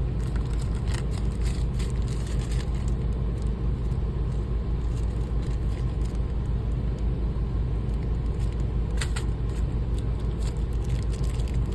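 A steady low rumble of background machinery or ventilation, with a few light clicks from small screws and shear parts being handled.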